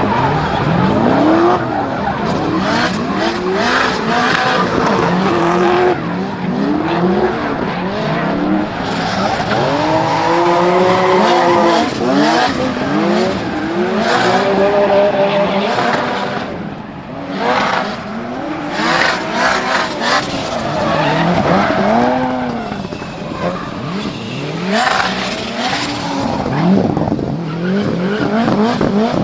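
Subaru Impreza WRX GC8 drift car's turbocharged 2.2-litre stroker EJ20 flat-four revving up and down again and again through a drift, with tyres squealing and skidding.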